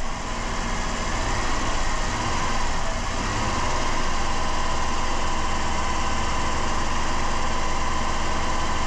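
2007 Dodge Caravan engine idling, with a steady whistle of air being drawn in through the emptied Seafoam can and its open vacuum line: a massive vacuum leak.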